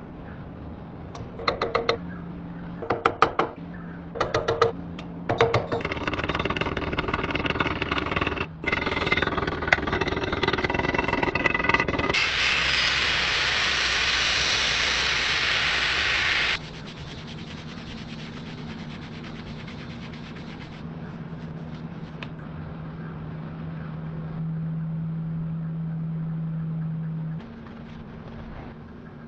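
Workshop metalworking on a steel blade: a run of sharp strikes with a ringing after each, then a busy stretch of noise, then a loud steady hiss lasting about four seconds that cuts off suddenly. A low machine hum follows and swells for a few seconds near the end.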